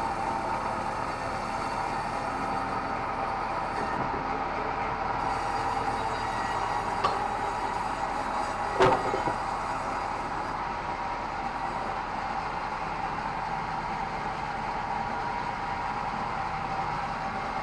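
Band sawmill running with a steady whine over a constant mechanical rumble, with a sharp knock about halfway through.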